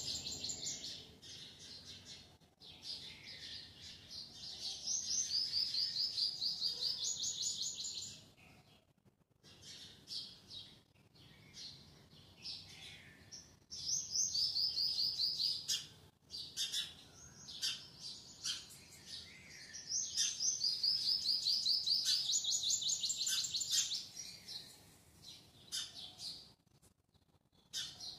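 Birds chirping in rapid, high-pitched trilled phrases that repeat every few seconds. The sound cuts out completely three times, briefly each time.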